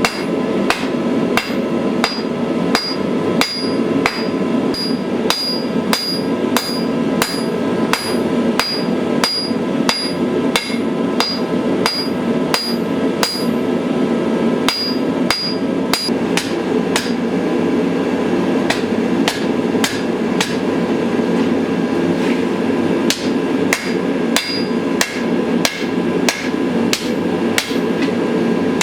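Hammer blows on a Bowie knife blade being forged on an anvil, a steady run of about two to three strikes a second, many with a high metallic ring. A steady low hum runs underneath.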